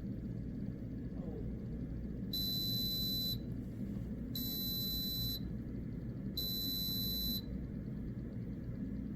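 Single-serve pod coffee maker's electronic beeper sounding three times, each beep a steady high tone about a second long with a second's gap between, over a steady low hum.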